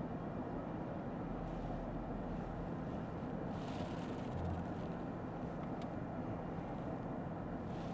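Steady cabin road noise of a Lexus ES 350 F Sport driving on wet pavement: tyre and engine noise heard from inside the car. There are a few brief hissing swishes, at about 1.5 s, about 4 s and at the end, and one small tick near 6 s.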